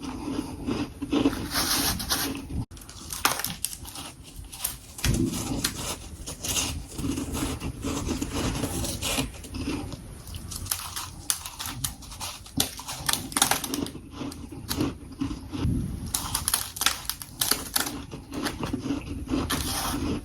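Freezer frost being bitten and chewed close to the microphone: many quick, irregular crunches.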